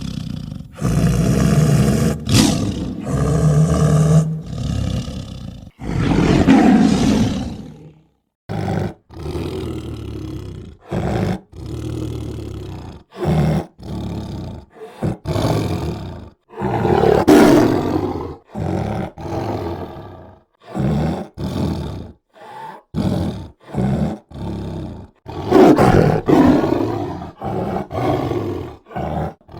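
Tiger roars and growls in a long series of calls, some long and loud, many short, each starting and cutting off abruptly as if spliced together.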